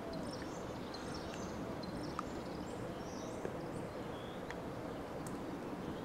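Small birds chirping over a steady low rumble of outdoor background noise, with a few faint ticks.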